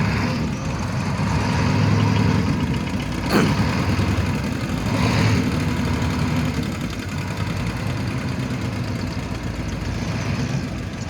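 Tugboat engine running steadily with a low drone while hauling logs, with a short sharp knock about three seconds in.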